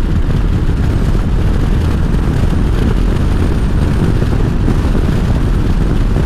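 Harley-Davidson motorcycle running at road speed: steady engine rumble mixed with heavy wind noise on the rider's microphone.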